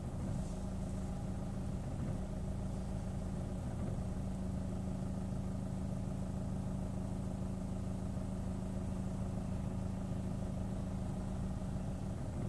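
Chevrolet Orlando engine idling at standstill with a steady note, still running although start-stop is engaged. The idle has slight jolts that make the rev-counter needle twitch.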